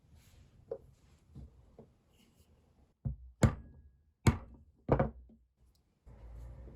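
A few light taps, then four sharp knocks in quick succession, as of hard objects handled in a workshop. A steady low hum starts near the end.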